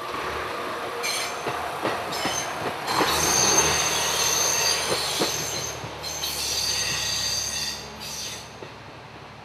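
Train wheels squealing in several waves as an HB-E300 series hybrid railcar pulls slowly away over the station tracks, with a few wheel knocks and a low steady hum underneath. The squeal stops about a second before the end.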